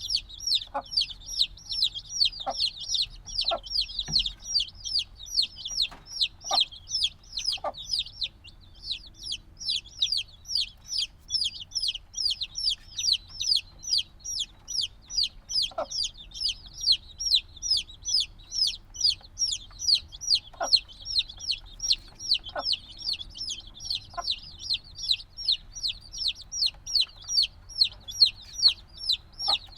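A brood of chicks only a few days old, peeping loudly and without pause: many short, falling, high-pitched peeps overlapping, about three or four a second. A few short, lower sounds come through now and then.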